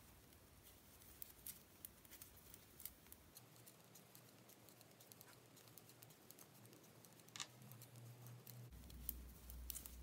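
Faint, irregular clicks and taps of two knitting needles as stitches are knitted in garter stitch, with one sharper click about seven seconds in.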